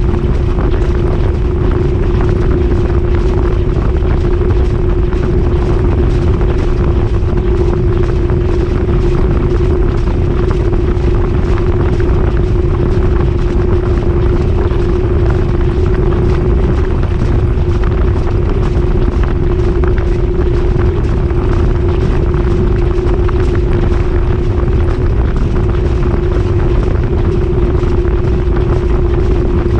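GE top-loading washing machine in its high-speed spin, heard from inside the drum: a loud, steady rumble with a constant hum that holds the same pitch throughout.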